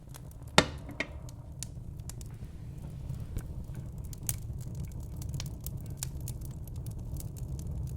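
Wood fire crackling in a fireplace: scattered sharp pops and snaps over a low steady rumble, with one loud pop about half a second in.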